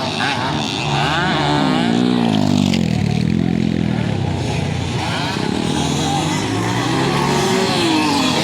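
Enduro dirt bike engines revving on the race track, their pitch climbing and dropping again and again as the riders open and close the throttle and shift.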